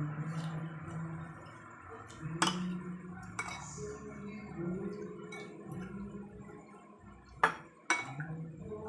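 Eating utensils clinking against a plate or bowl during a meal, with four sharp clinks: two close together about two and a half seconds in, and two more near the end.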